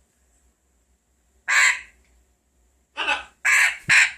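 Red factor grey parrot squawking: one squawk about a second and a half in, then three more in quick succession near the end.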